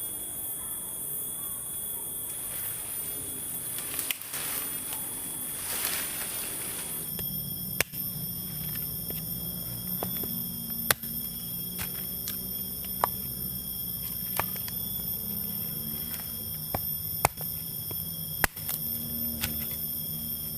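Steady high-pitched insect drone of a forest, with a low hum coming in about a third of the way through. Isolated sharp clicks or knocks come every second or two in the second half.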